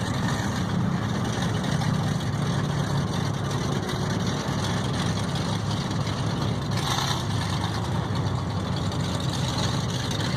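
Truck engine running steadily with a low, even drone. About seven seconds in, a brief burst of hissy noise rises over it.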